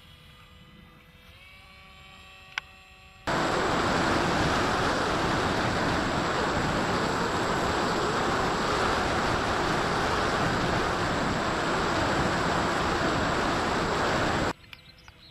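Loud, perfectly steady hiss with a thin high whistle in it, cutting in abruptly a few seconds in and cutting off just as abruptly near the end. Before it, a faint motor whine shifts in pitch.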